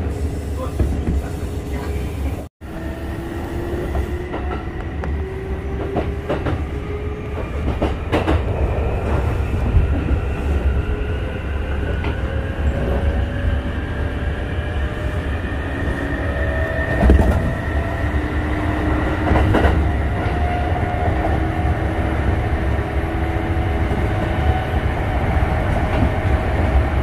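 Electric train running on rails: a steady low rumble with a motor whine that slowly rises in pitch as it gathers speed, and scattered wheel clicks on the rail joints. The sound briefly cuts out about two and a half seconds in.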